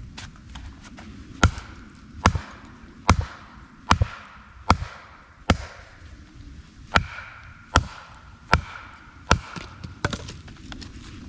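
Hand-carved wooden wedges being hammered into a knotty log: about ten sharp blows, roughly one every 0.8 s, each with a short ring, and a brief pause about six seconds in.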